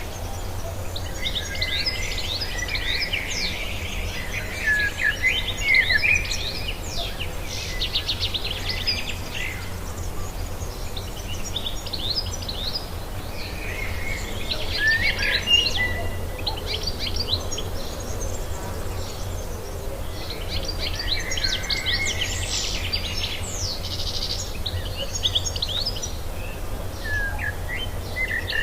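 Songbirds chirping and trilling in bouts of rapid high notes with short lulls between them, over a steady low hum.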